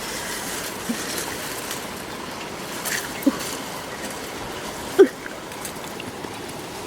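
A few short, low bird calls over a steady rushing background like running water; the loudest call comes about five seconds in.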